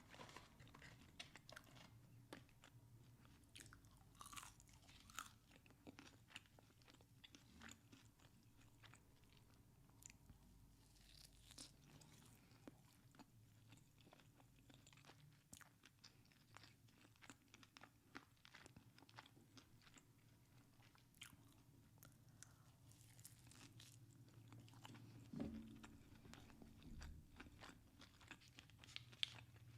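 Close-miked eating: a person biting and chewing crunchy food, a dense run of short clicks and crunches.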